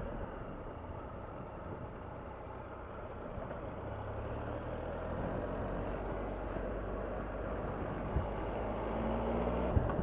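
Triumph Tiger 1200's three-cylinder engine running steadily under way, mixed with wind and road noise, growing slightly louder in the second half.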